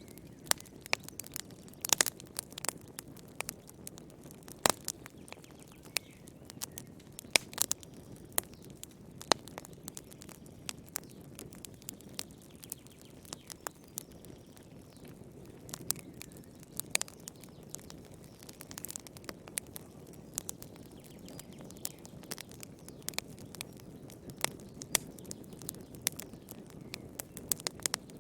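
Fire crackling in a fireplace: irregular sharp pops and snaps, a few of them louder, over a soft steady low rumble of the flames.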